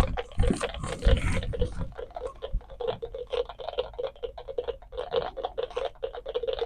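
A bank of about twenty NE555-timer raindrop sound circuits clicking through small speakers, many irregular overlapping ticks with a hollow plop to each, like a patter of raindrops. A few low thumps come in the first second or so.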